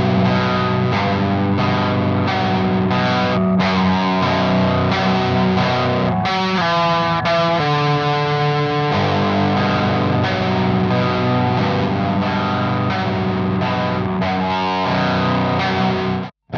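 Distorted electric guitar with passive pickups, tuned to B standard, picking an arpeggio through a Frost Giant Electronics The Mountain pedal in distortion mode into a Sunn Beta Lead. The notes ring into one another as a chord under a saturated tone, and the playing cuts off suddenly just before the end.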